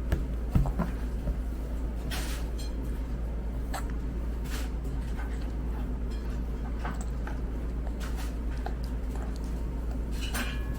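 A steady low hum, with a few soft clicks and smacks scattered through it from a toddler eating off a spoon and bowl.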